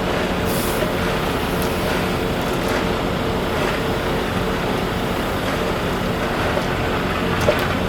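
An engine running steadily with an even drone and a low hum. A single small click comes about seven and a half seconds in.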